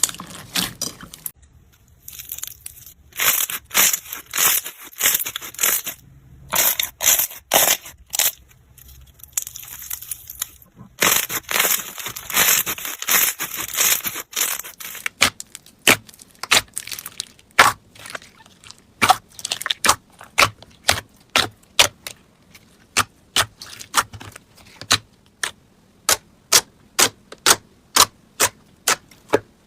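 Slime being squeezed and worked by hand, crackling and popping. The first half is dense crackling; from about halfway there is a steady run of sharp pops, roughly two a second.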